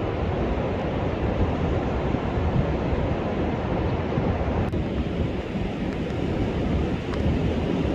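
Storm surf breaking on a sandy beach in a high-seas advisory: a steady, unbroken rush of waves, with wind buffeting the microphone.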